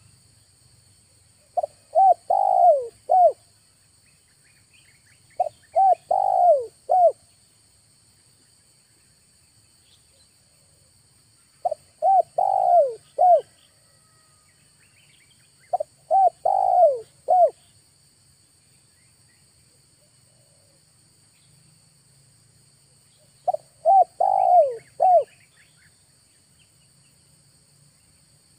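Spotted dove (tekukur) cooing: five separate multi-note phrases, each about a second and a half long, spaced several seconds apart. The calls come from a decoy dove set out to lure wild doves.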